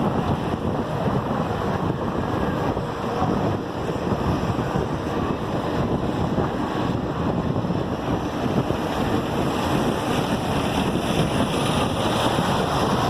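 Steady rush of wind over the microphone of a cyclist riding fast.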